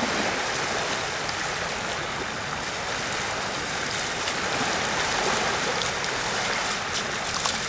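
Steady rushing wash of sea waves on a sandy shore.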